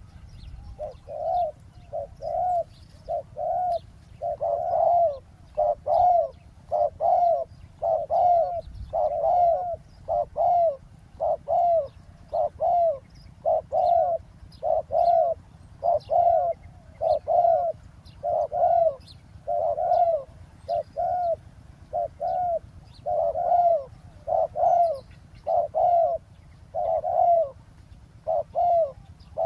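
Spotted doves cooing over and over in a steady run of mellow coos, one to two notes a second with short pauses between phrases, as a decoy dove and wild doves call. Faint chirps of small birds and a low steady rumble sit underneath.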